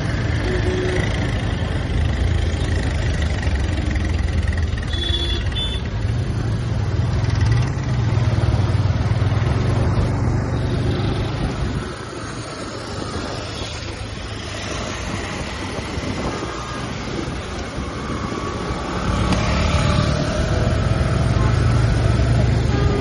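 TVS Apache RTR 180 motorcycle's single-cylinder engine and exhaust running under way in traffic, pulling steadily, easing off about halfway through and picking up again near the end.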